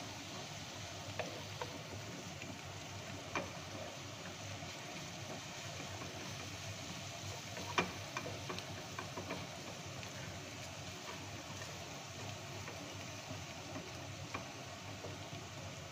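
Halloumi cubes and chopped onion frying in oil in a ceramic-coated pot, a steady sizzle, while a wooden spatula stirs and scrapes. The spatula knocks against the pot a few times, the loudest about eight seconds in.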